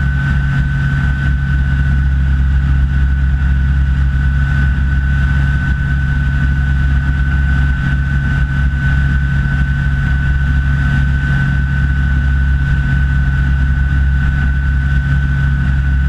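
Rans S6 light aircraft's engine and propeller running steadily in flight, an even drone with a thin, steady high whine above it.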